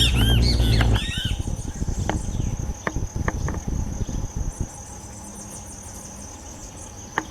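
A bird's loud, rapidly repeated squawking calls break off about a second in. After that an insect keeps up a steady high buzz, with a few short, sharp falling bird notes.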